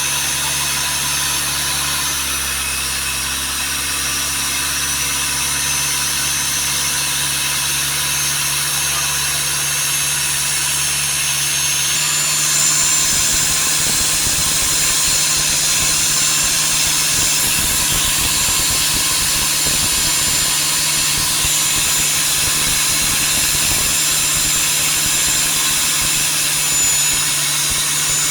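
Boat engine running steadily, its note changing about halfway through.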